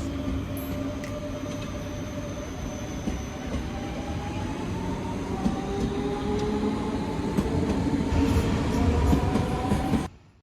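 German S-Bahn electric commuter train running on the track: a steady rumble with a faint whine that slowly rises in pitch. The sound cuts off abruptly near the end.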